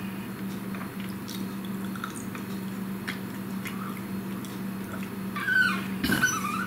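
Chewing a mouthful of salad and meat, with faint clicks of a fork, over a steady low hum. Near the end come a few short squeaky high-pitched sounds.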